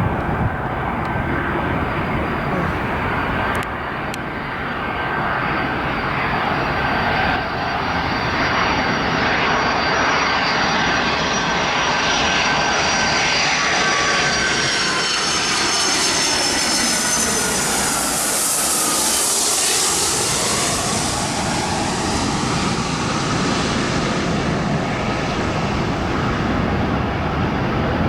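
Boeing 757-200 jet airliner on landing approach, its engines growing louder as it nears and passing closest about two-thirds of the way through. Whining engine tones fall in pitch as it goes by, and the rushing engine noise eases a little afterwards.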